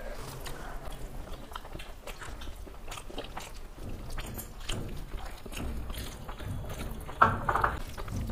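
Close-miked eating: people chewing mouthfuls of rice and meat curry, with many small clicks and smacks. Fingers mix the rice on the plates, and one louder sound comes about seven seconds in.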